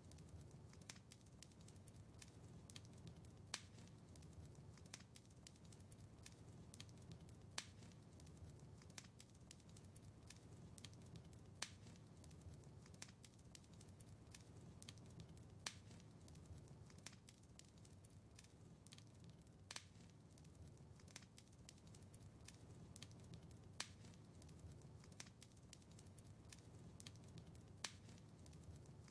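Wood fire in a fireplace crackling softly, with frequent small sharp pops and snaps over a low steady rumble of the flames. A louder snap stands out about every four seconds.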